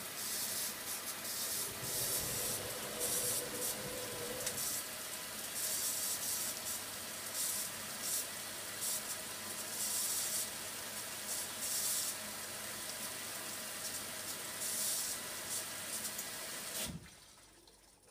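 Hoover Logic washing machine taking in water through its inlet valve, a steady rushing hiss with surging splashes. The flow cuts off abruptly about a second before the end as the fill valve closes.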